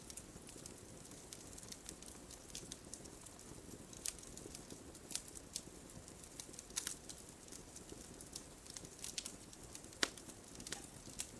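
Campfire crackling: irregular sharp pops and snaps of burning wood over a soft steady hiss, the sharpest pop about ten seconds in.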